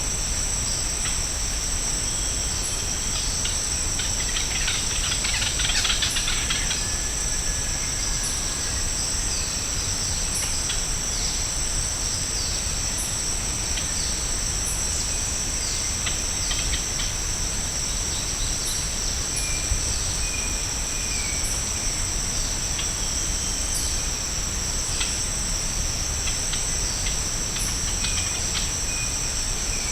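Tropical forest insect chorus: a continuous high-pitched drone in two steady bands. Short bird chirps and calls break in throughout, with a louder noisy patch about five seconds in.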